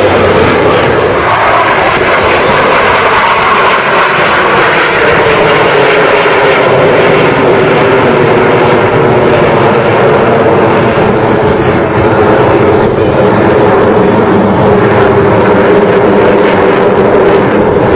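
Blue Angels F/A-18 jet aircraft flying a display, their jet engines loud and steady throughout with a slowly falling tone.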